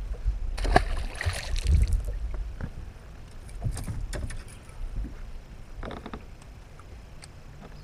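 Water splashing at the side of a small fishing boat, followed by scattered knocks and clicks of handling in the boat.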